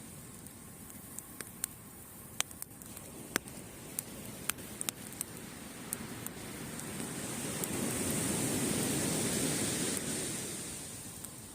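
Campfire wood crackling with scattered sharp pops, over the wash of surf; a wave swells and recedes about two-thirds of the way through.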